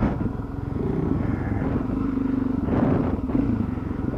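Dual-sport motorcycle engine running at a fairly steady pitch while riding, with a brief rush of noise about three seconds in.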